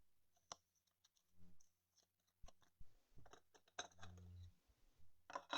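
Faint clicks and light scrapes of trading cards being handled, with a louder cluster near the end.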